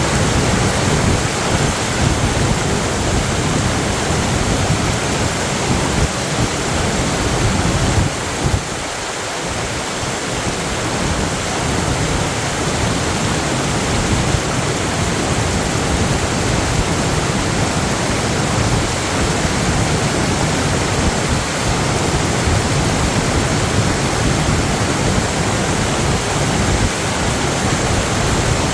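Fast floodwater rushing in a loud, steady wash of noise, easing slightly about eight seconds in.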